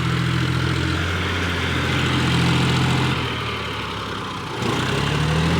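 Tractor engine running steadily, easing off about three seconds in, then picking up again with a rising pitch near the end.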